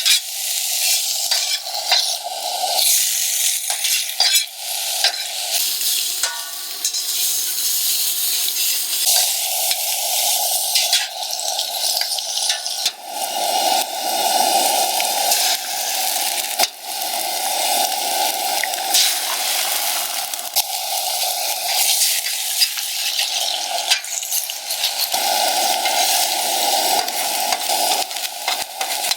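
Food sizzling in a frying pan, with a utensil stirring it and clicking against the pan again and again.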